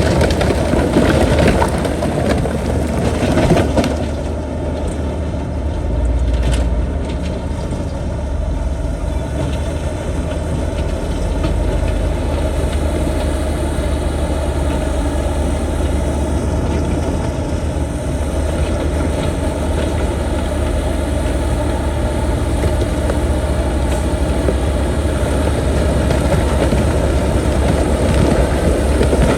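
Diesel engine of heavy earthmoving machinery running steadily. It is louder and rougher for the first four seconds, then settles to an even drone.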